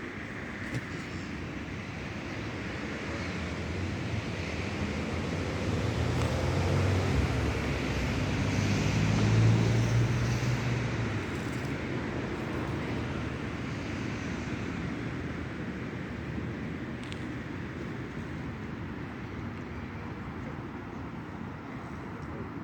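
An engine passing by: a low hum swells over several seconds, peaks about halfway through, then fades, over a steady rushing background.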